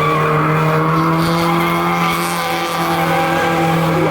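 A car's V8 engine held at steady high revs while its tyres spin and skid through a slide.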